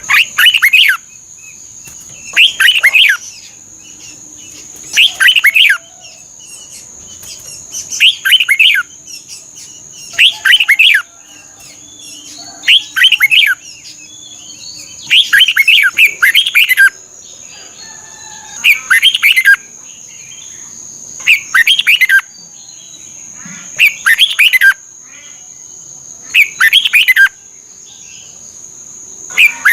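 Red-whiskered bulbul singing: a short, loud phrase of quick warbled notes, repeated about every two and a half to three seconds. A steady high-pitched whine runs underneath.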